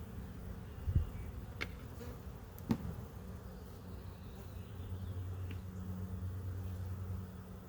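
Honeybees buzzing around an opened hive, a steady hum that swells in the second half. A low thump about a second in and a few sharp clicks come through it, typical of frames and hive parts being handled.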